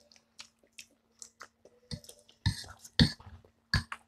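Close-up eating sounds of chewing spicy chicken feet and ramen noodles: soft wet mouth clicks, then three short, louder smacks in the second half.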